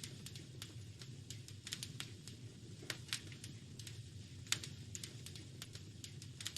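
Wood fire in a fireplace crackling: irregular sharp pops and snaps over a steady low rumble of the flames, with one louder pop about four and a half seconds in.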